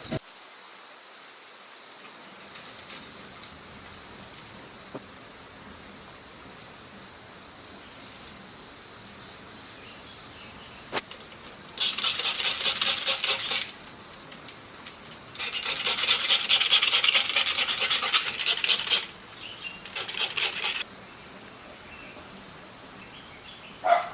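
Rasping scrape in three bouts: about two seconds, then a longer one of about three and a half seconds, then a short one, each made of fast repeated strokes, over a faint steady high-pitched whine.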